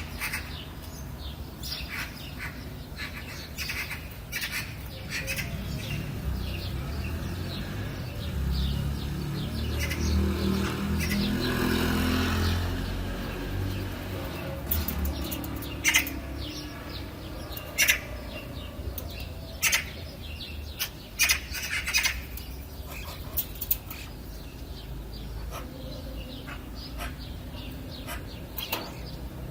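Wild birds chirping and calling in short, scattered bursts, a few sharp calls standing out in the second half. Around the middle a low rushing sound swells and fades.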